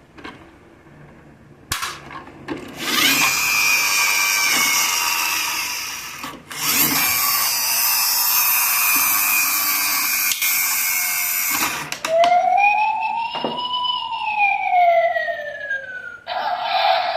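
Electronic sound effects from a toy truck's built-in sound module: a few clicks, then two long stretches of loud hissing engine-like noise, then a siren that rises and falls in pitch once. Another steady sound effect starts near the end.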